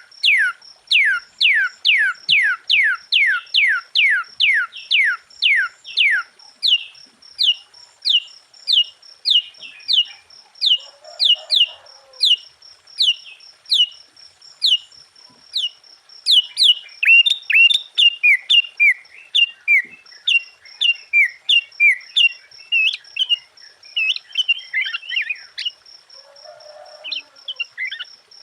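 Sooty-headed bulbul (kutilang) singing: a fast run of clear whistled notes, each sliding steeply downward, about two or three a second. From about halfway in the song turns into busier, more varied chattering phrases.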